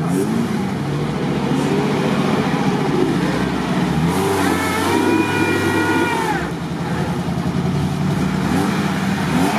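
Off-road 4x4 engine revving up and down under load while pulling through deep mud. About halfway through, a steady higher tone is held for a couple of seconds.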